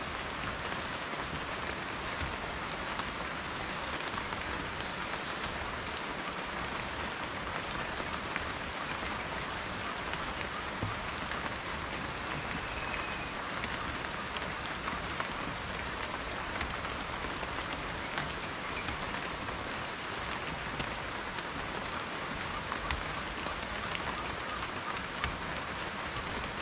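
Steady rain falling, a constant hiss with many individual raindrops ticking sharply on a surface.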